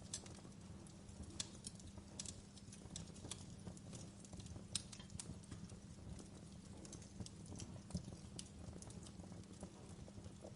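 Wood fire crackling in a fireplace: irregular sharp pops and snaps, several a second at times, over a low steady rumble of the burning.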